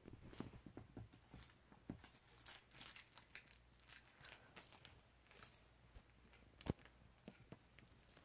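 Norwegian Forest kitten playing: faint, scattered scratching and crinkling with light clicks and taps, and one sharper tap about two-thirds of the way through.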